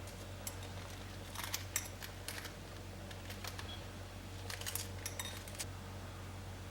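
Light clinks and taps of kitchenware being handled, in two short clusters, over a steady low hum.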